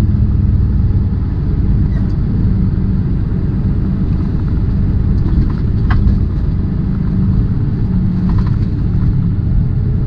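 Tractor-trailer's diesel engine and road noise heard from inside the cab while driving: a steady low rumble, with a couple of faint clicks.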